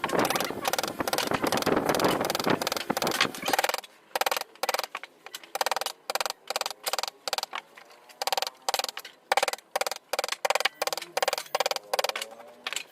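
Hand carving of shisham wood: a carving tool working the wood in quick repeated strokes, dense for the first few seconds and then about two to three strokes a second.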